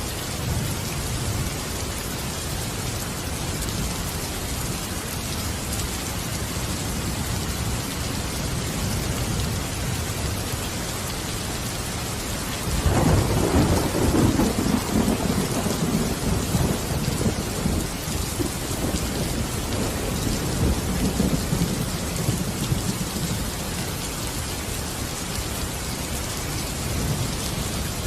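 Steady rain hissing, with a long rumble of thunder that breaks in suddenly about halfway through, is loudest for a few seconds, then slowly dies away.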